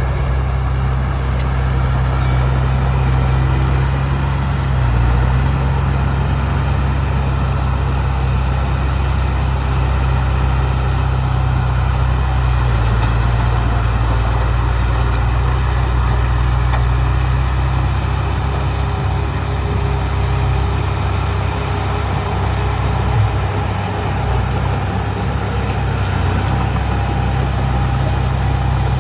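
Heavy machinery diesel engine running steadily with a deep low hum. Its note shifts a few times, and there is one brief click a little before the end.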